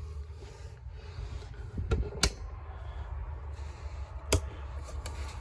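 Two sharp knocks about two seconds apart, with a few fainter ticks, over a steady low rumble of movement and handling noise.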